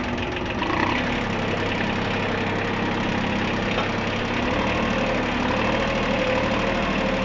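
Mini tractor's 22 hp three-cylinder diesel engine running steadily while the tractor crawls along slowly in first gear, its note shifting slightly about halfway through.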